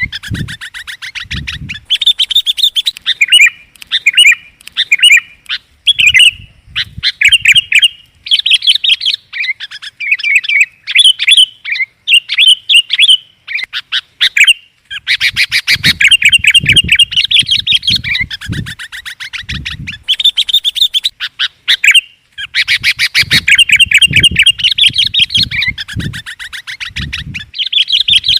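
Sooty-headed bulbul (kutilang) calls used as a lure: loud, rapid chattering notes repeated in runs with short breaks between them. At times a low rumble sounds beneath the calls.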